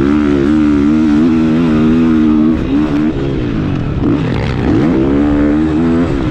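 2022 KTM 450SX-F single-cylinder four-stroke engine being ridden hard on a motocross track, the throttle rolled on and off. Revs hold high for the first few seconds, drop briefly about three seconds in, then fall and climb again before holding steady.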